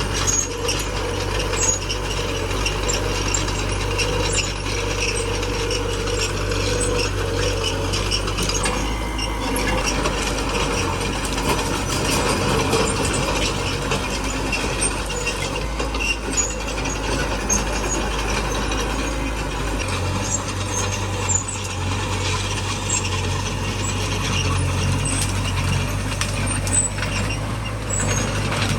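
Small crawler bulldozer at work: its diesel engine running steadily, with a continuous metallic clatter from its tracks.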